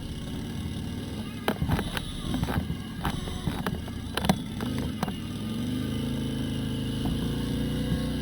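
Harley-Davidson Road Glide's V-twin engine running, with scattered knocks and taps over the first few seconds. About two-thirds of the way in it settles into a steady, slowly rising note.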